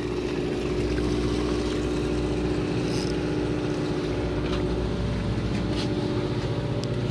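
A fishing boat's engine running steadily: an even, constant hum with a low rumble underneath.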